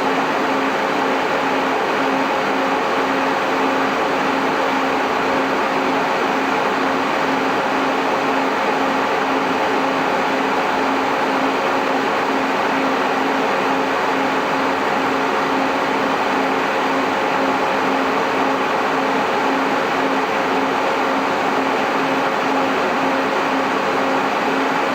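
Cooling fans of an MJ Research PTC-225 Tetrad Peltier thermal cycler running steadily: an even whooshing rush of air with a constant low hum under it.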